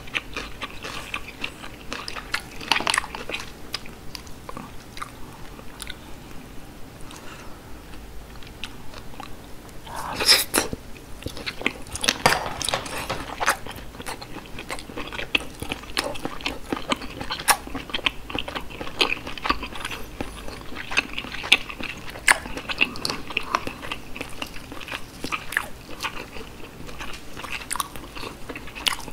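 Close-miked chewing of steamed whelk (sea snail) meat: wet, sticky mouth sounds with many irregular clicks and smacks, a few louder bursts about ten and twelve seconds in.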